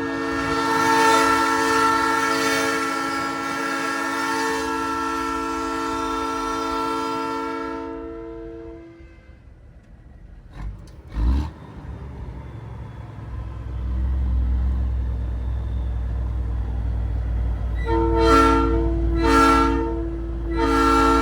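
Nathan Airchime P3 train horn on a semi truck: one long chord blast of about eight seconds, then two short toots and a third blast starting near the end. Between the blasts there are a couple of knocks and a low diesel engine rumble.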